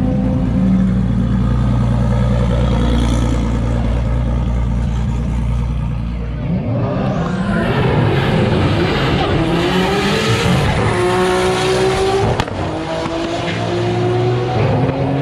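Car engine running with a steady low drone, then from about seven seconds in revving up in rising pitch as it accelerates, with more than one engine note overlapping, before settling into a steady run.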